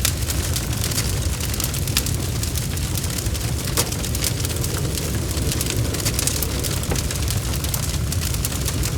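Wood fire burning in a fireplace: a steady low rumble of the flames with many small, irregular crackles and pops from the burning logs.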